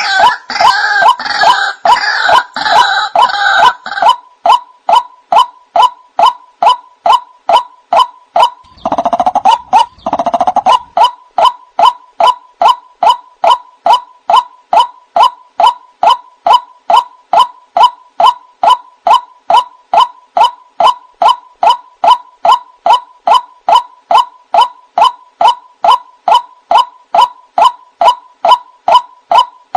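White-breasted waterhen (ruak-ruak) calling: a steady run of short, evenly repeated notes, about two or three a second. The calling is fuller and rougher for the first few seconds and again about ten seconds in. This is the call used as a lure for the bird.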